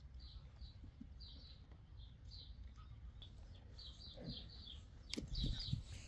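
Small birds chirping: short high notes repeating irregularly over a low rumble. A few dull, louder thumps come about five seconds in.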